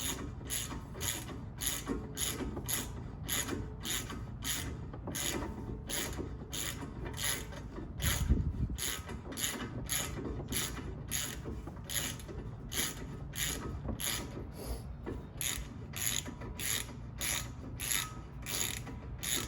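Socket ratchet wrench clicking in steady back-and-forth strokes, about two a second, as the brake caliper bolts are tightened down. There is a louder low knock about eight seconds in.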